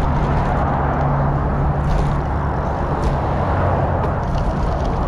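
Steady wind and rolling noise on a bicycle-mounted camera's microphone during a ride, with road traffic beside the path; a vehicle's low hum fades over the first couple of seconds.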